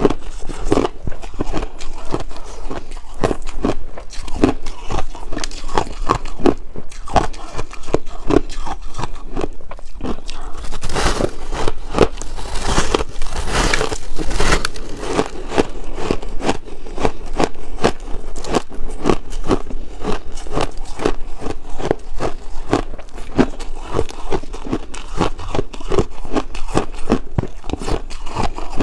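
A person biting and crunching chunks of ice close to the microphone: a steady run of sharp crunches, a couple a second, thicker and brighter for a few seconds in the middle.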